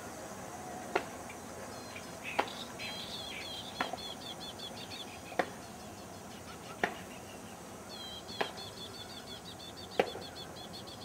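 Birds chirping in two quick runs of repeated high notes, one early and one near the end, over a sharp knock about every one and a half seconds and a steady background hiss.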